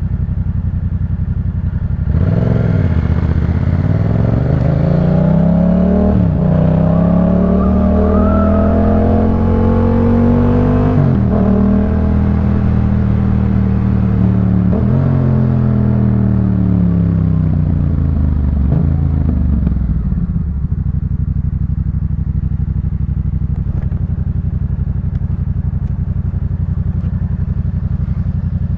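Yamaha MT-07 parallel-twin engine through a Jeskap K4 full aftermarket exhaust, pulling away from a steady low tick-over. It revs up through several gear changes, each a short dip in pitch, then winds back down with short blips. For the last third it settles back to a steady idle.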